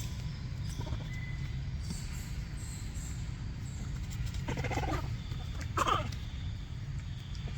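Monkey calling twice, two short pitched calls about four and a half and six seconds in, over a steady low rumble.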